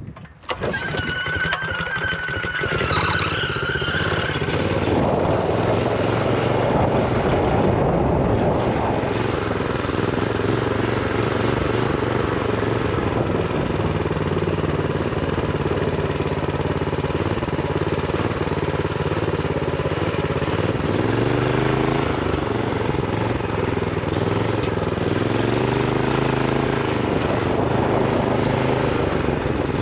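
Honda GX390 single-cylinder engine on a minibike, running steadily after a sudden rise about half a second in. It climbs in pitch three times in the second half as the throttle is opened. A high wavering tone sounds over it in the first few seconds.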